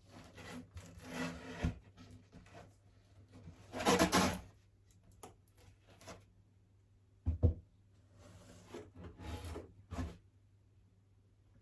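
Wooden packing pieces inside a shipping box being rubbed and shifted. There is a louder scrape about four seconds in and a couple of short knocks later on.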